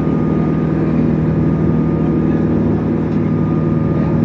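Boat engine running steadily at cruising speed, heard from on board.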